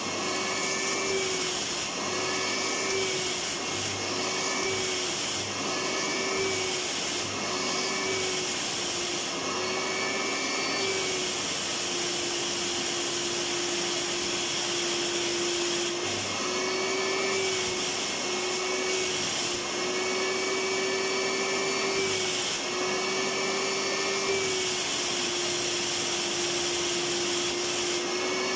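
Vacuum cleaner running continuously. Its motor pitch wavers up and down about once a second for long stretches, then holds steady for a few seconds around the middle.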